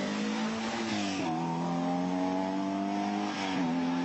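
Rally car engine accelerating hard as the car drives past and away, its pitch climbing and dropping sharply at two upshifts, about a second in and about three and a half seconds in.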